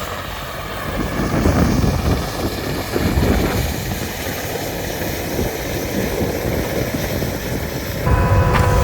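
Eurocopter EC145 twin-turbine helicopter in flight: a steady rotor and turbine rumble with gusty swells. About eight seconds in, the sound jumps louder and steadier, with a whine of several fixed tones coming in.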